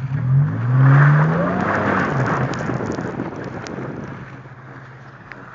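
Car engine revving up as the car accelerates, its pitch rising, with road noise that then slowly dies away.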